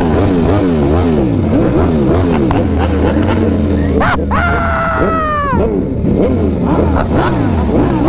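Motorcycle engines revving up and down over and over, about twice a second, over a steady low engine rumble. About four seconds in, a loud held high tone cuts in and slides down as it stops.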